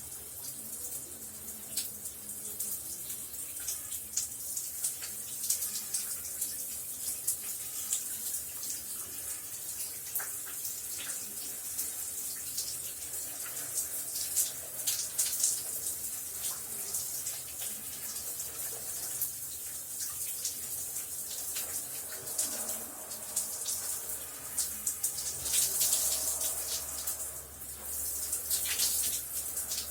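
Shower running: a steady hiss of water spraying and splashing, with irregular louder spatters.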